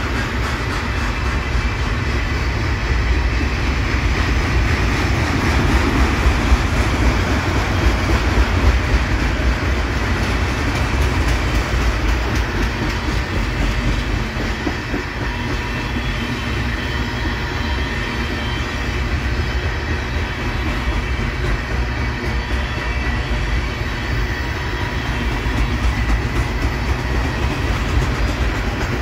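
Freight train cars rolling past steadily, a continuous rumble of steel wheels on the rails with a faint repeated clacking.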